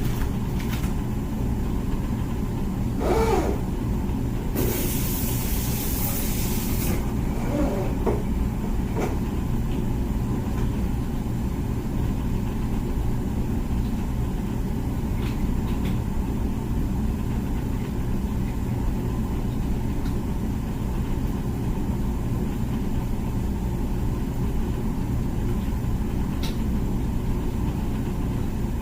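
Comfee dishwasher running mid-cycle with a steady low hum from its wash pump motor. A brief hiss starts about five seconds in and lasts about two seconds.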